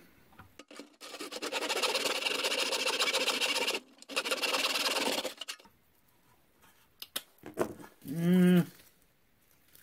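A saw cutting through a corn cob: about four seconds of steady, dense cutting noise with a brief break partway, then it stops. Near the end comes a short hummed voice sound.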